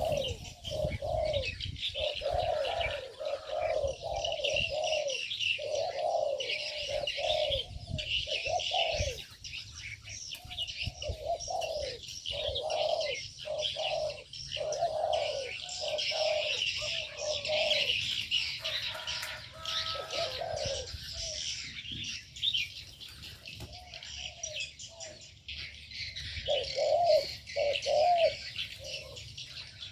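Doves cooing over and over in short phrases, while many small birds keep up a busy high chirping.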